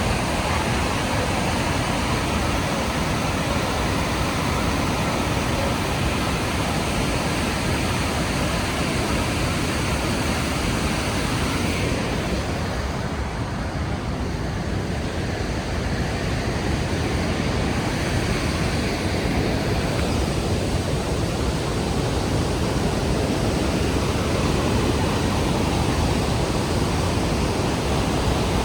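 The Rhine Falls' roar of falling water: a steady, dense rushing noise. Its hiss dulls briefly midway and it grows slightly louder near the end.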